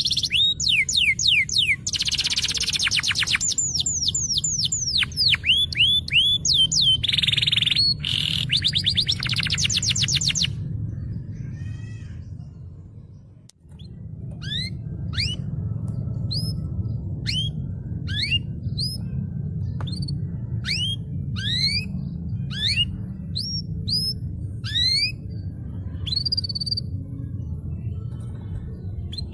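Domestic canary song. For about the first ten seconds it is loud and rapid, with fast trills and quick down-slurred notes. It fades out briefly about halfway through, then goes on as single sweeping chirps about once a second.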